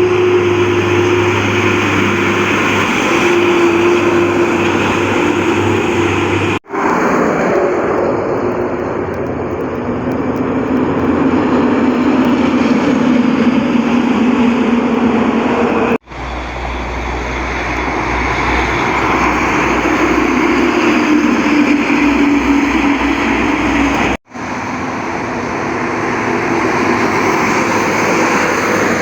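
Heavy trucks driving past on a highway: steady engine drone with tyre and road noise, the engine pitch drifting as each truck goes by. The sound breaks off abruptly three times.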